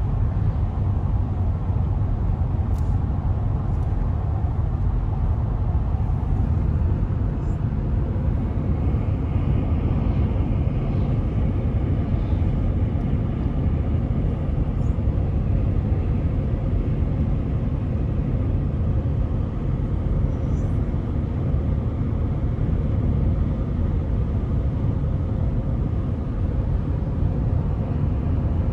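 Steady low road and engine noise inside a car cruising at highway speed.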